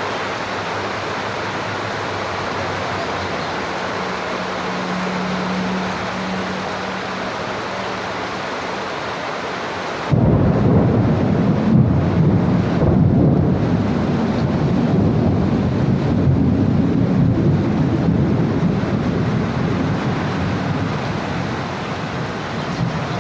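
Steady rain hiss, then about ten seconds in a sudden, loud, low rumble of thunder that comes in abruptly and keeps rolling and swelling through the rest, with the rain still falling.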